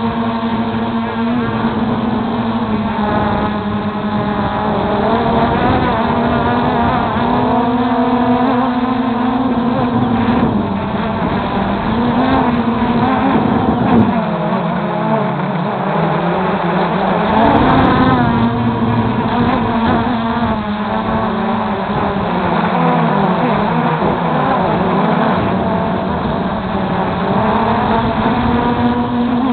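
MJX Bugs 3 quadcopter's brushless motors and propellers buzzing, the pitch rising and falling as the throttle changes in flight, with wind rumbling on the microphone.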